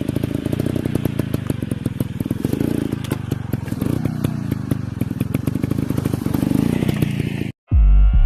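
Dirt bike engine running, a rapid uneven chatter of exhaust pulses with clattering. It cuts off abruptly near the end, and loud electronic music starts.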